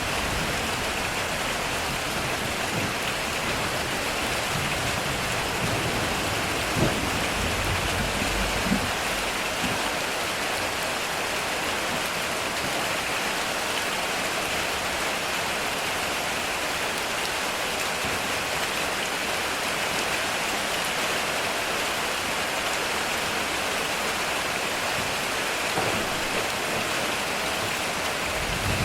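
Heavy rain drumming steadily on a metal roof. A low rumble of distant thunder runs under it for the first nine seconds or so, with two sharp drip-like ticks about 7 and 9 seconds in.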